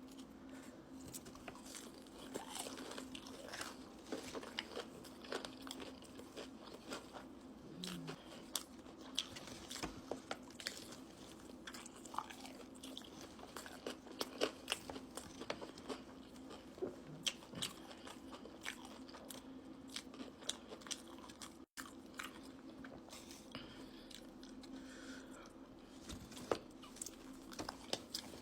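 Close-miked mukbang eating: irregular crisp crunching bites and chewing, over a faint steady low hum. The sound cuts out for an instant about two thirds of the way through.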